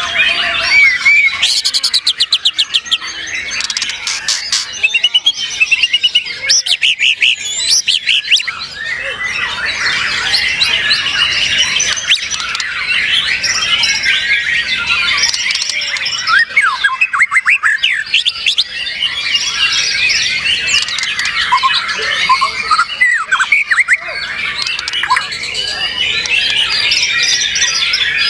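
White-rumped shama (murai batu) singing: a loud, continuous, varied song of whistled notes, fast rattling trills and harsh squawk-like calls.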